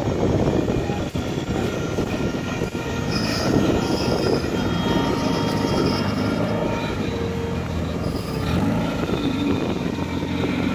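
Drag-race Honda Civic's engine running at steady revs, with a thin whine over it.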